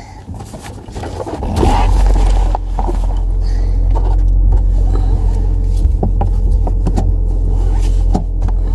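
Car cabin noise as the car pulls away: a steady low road-and-engine rumble that swells about a second and a half in and then holds.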